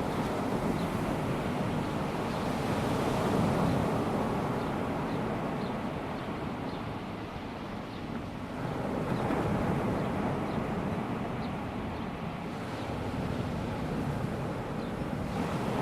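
Small waves of a calm sea washing onto a sandy beach, swelling and easing about every six seconds.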